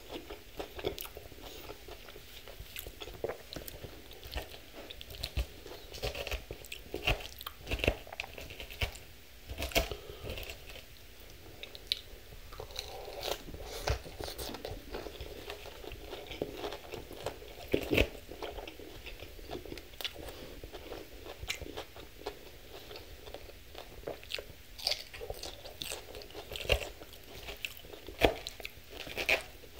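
Chewing and crunching of a Thai sesame chicken salad close to the microphone: irregular crisp crunches, several a second at times, with a few louder ones.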